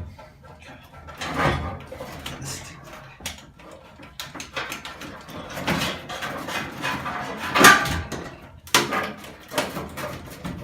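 A Stanley knife sawing and scraping at a rubber fuel line, irregular and hard going, with several sharper scrapes and clicks.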